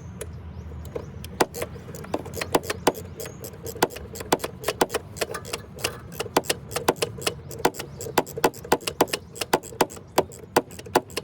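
Hand tools clicking and clinking against metal in quick, irregular strokes while the EGR valve's bolts are run back in, over a steady low hum.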